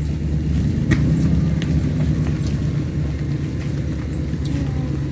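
A motor running with a steady low drone, with a few faint clicks.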